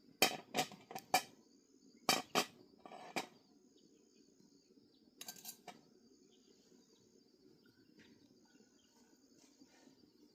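Groups of short dry crackling snaps: four close together at the start, more around two and three seconds in, and a softer group about halfway. A steady high insect buzz runs underneath.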